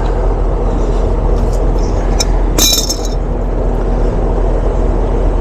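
Small metal clicks and a short ringing clink about halfway through as the brass caps come off the suction and liquid service ports, over a steady mechanical drone and hum.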